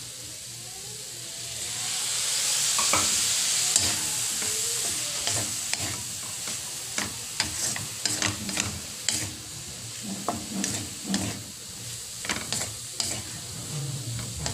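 Flaked milkfish frying in a hot pan, the sizzle swelling about two seconds in as soy sauce goes in. A wooden spatula then stirs and scrapes the mixture, with many quick knocks against the pan.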